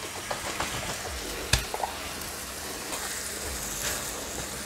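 Squid and onions in tomato sauce sizzling in a frying pan while a wooden spoon stirs through them, with one sharp knock about a second and a half in.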